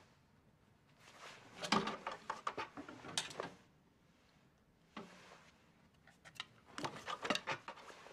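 Wooden clothes hangers clacking and sliding on a wardrobe rail as clothes are taken down and handled, with fabric rustling. The quick clicks come in two bursts, about a second in and again about five seconds in.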